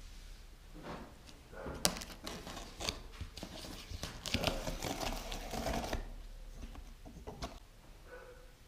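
A cardboard box being opened and unpacked by hand: irregular tearing, rustling and knocking of cardboard and polystyrene foam packing.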